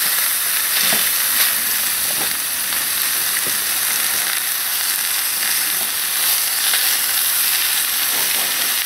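Lean chicken, zucchini and onions sizzling hard in a hot wok, with the occasional tick of a utensil stirring them. The pan is frying nearly dry and wants a shot of water.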